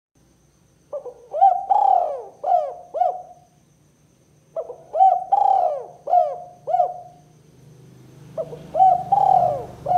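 Spotted dove cooing: three phrases of four or five arching coos each, a phrase starting every three and a half to four seconds.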